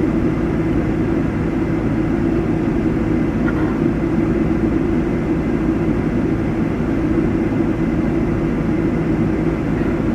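Steady, unchanging low hum of an idling engine.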